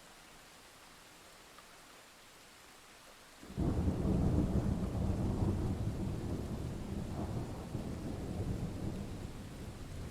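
Steady light rain, then a thunderclap breaks in suddenly a little over three seconds in. Its deep rumble rolls on, swells once more, and slowly dies away.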